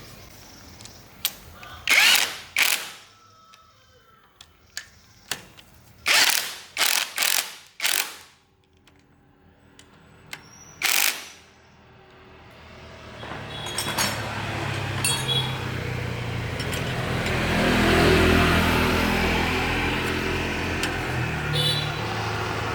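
A string of short, loud noisy bursts, then a motor running steadily that grows louder from about halfway through.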